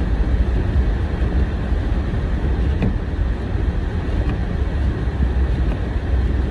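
Car driving: a steady low rumble of engine and tyres on a snowy road.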